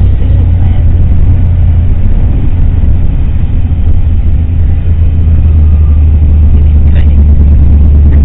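Steady, loud low rumble of a vehicle driving on snow-covered roads, heard from inside: engine and road noise.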